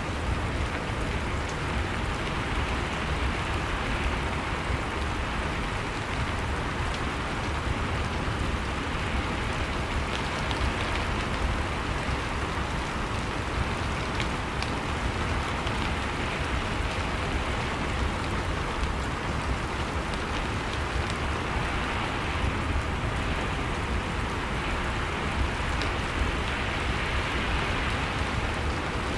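Steady rainfall with faint scattered drop ticks and a steady low rumble underneath, unchanging throughout.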